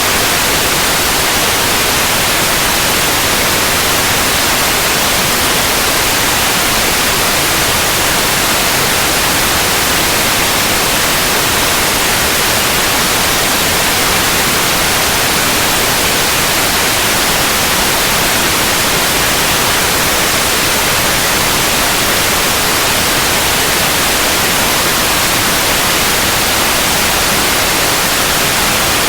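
Steady, unchanging white noise: an even hiss across the whole range, brightest in the highs.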